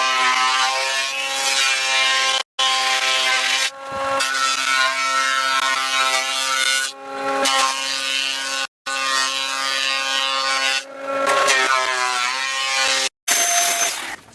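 Electric power tool cutting wood: a steady motor whine whose pitch dips each time the blade bites, with bursts of cutting noise about 4, 7 and 11 seconds in. The sound stops dead three times.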